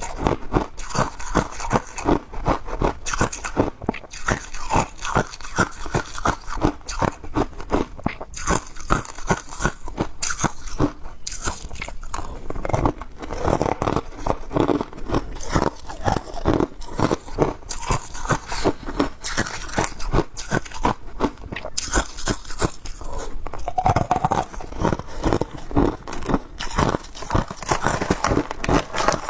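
Ice being bitten and chewed close to the microphone: a rapid, continuous series of crunches.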